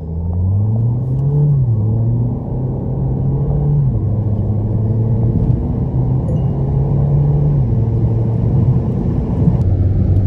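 Mahindra XUV700's 2.0-litre turbo-petrol four-cylinder engine accelerating hard from a standstill, heard from inside the cabin. The engine note climbs and drops back with each automatic upshift, three times: about one and a half, four and seven and a half seconds in.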